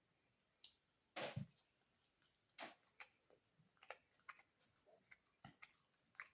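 Close-miked eating sounds: wet mouth clicks and smacks while chewing a mouthful of beef biryani, with one louder cluster a little over a second in and irregular soft clicks after it.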